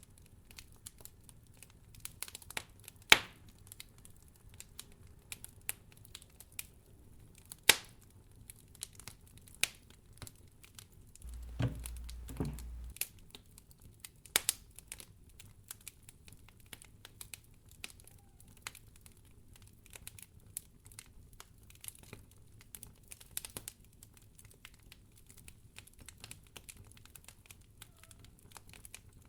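Wood fire in a fireplace crackling, with scattered sharp pops; the loudest pops come about three and eight seconds in. Midway there is a low muffled rumble lasting about a second and a half.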